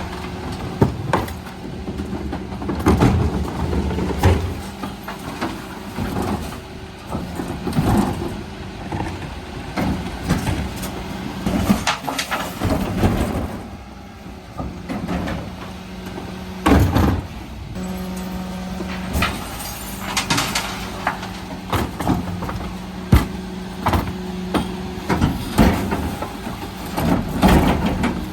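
Mercedes Econic refuse truck running with a steady low hum, overlaid by repeated knocks, bangs and clatters of bins being emptied. The hum drops away for a few seconds about halfway through and then comes back.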